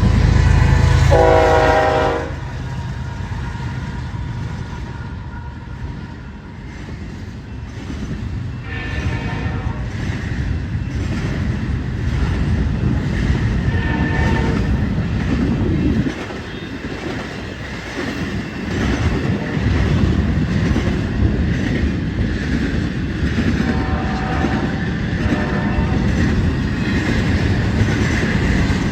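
Union Pacific diesel locomotives passing close by with a loud engine rumble and a short horn sounding about a second in. After about two seconds the rumble gives way to the steadier clatter of intermodal stack cars rolling past on the rails, with a few brief tones sounding later.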